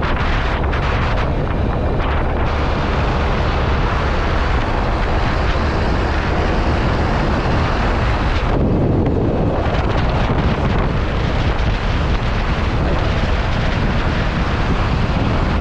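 Steady loud wind buffeting the microphone, with the low rumble of a moving vehicle underneath.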